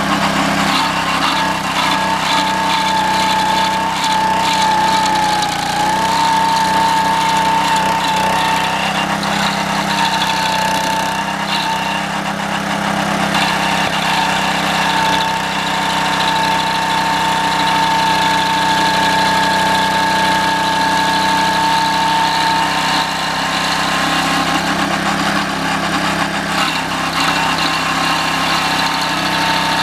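Homemade stump grinder's 6.5 hp Honda single-cylinder engine running steadily under throttle, driving a 20-inch toothed cutting wheel through 6:1 gear reduction into a green pine stump. A steady high whine runs through it and dips briefly about five seconds in.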